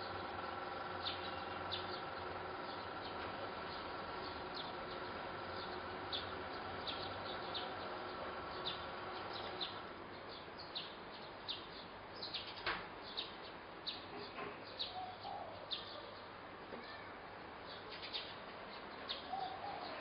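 Small birds chirping, short high calls repeated about once a second. A steady hum underneath cuts off about halfway through.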